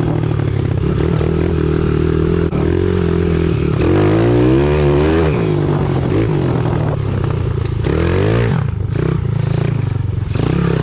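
Pit bike engine revving up and down repeatedly while riding through mud.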